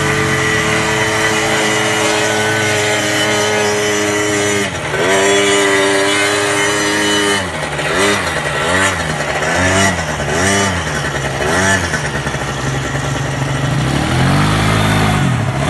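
Quad bike engine running close by, held at steady revs, then revved up and down several times in quick succession, about once a second, with one more rise and fall near the end.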